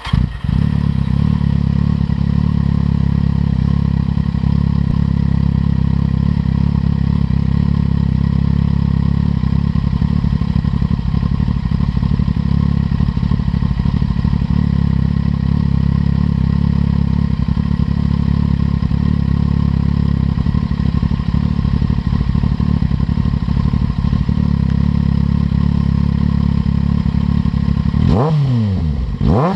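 Kawasaki Z750 inline-four idling steadily through an aftermarket LeoVince carbon exhaust, then revved with quick throttle blips near the end, the pitch rising and falling sharply.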